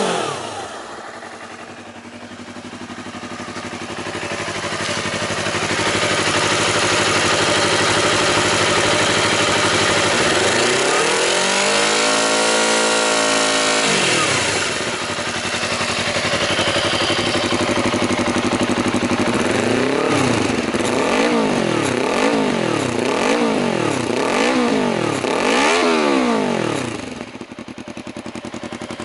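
Honda CBR250RR (MC51) parallel-twin engine revved through an aftermarket full-exhaust system. A rev dies away at the start, then the engine idles. One long rev rises, holds and falls back, followed later by about six quick blips of the throttle in a row. It then settles back to idle.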